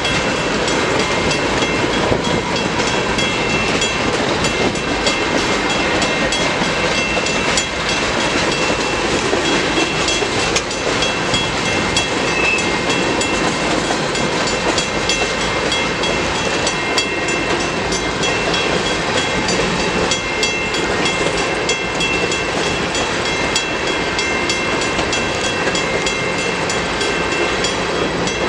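Freight cars of a CN manifest train rolling past, their wheels clicking steadily over the rail, with thin high ringing tones held above the rumble.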